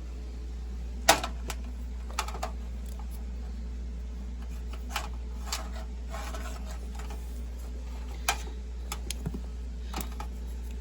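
Scattered sharp clicks and taps, as of small hard objects being handled, the loudest about a second in, over a steady low hum.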